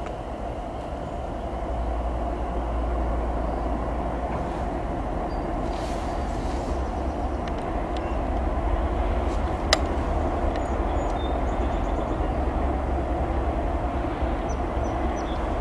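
Train rolling past: a steady rumble of wheels on the rails, with a sharp click about ten seconds in.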